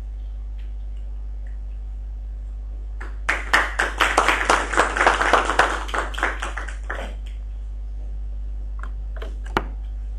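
A small audience clapping for about four seconds, starting about three seconds in, over a steady low electrical hum. A few single knocks come near the end.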